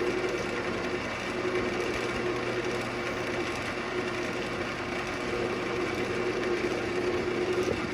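Central Machinery wood lathe running steadily while a carbide turning tool cuts into a spinning ambrosia maple bowl blank: a constant motor hum under a rough, steady scraping of the wood.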